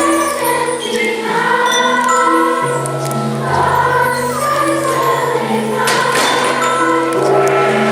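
A choir singing a song over an instrumental accompaniment with a held, slowly changing bass line.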